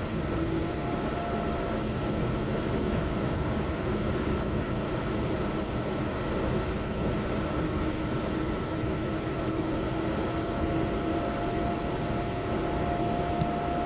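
Inside a Yurikamome rubber-tyred automated guideway train running along its track: a steady rumble of tyres and running gear with faint, even motor hums over it.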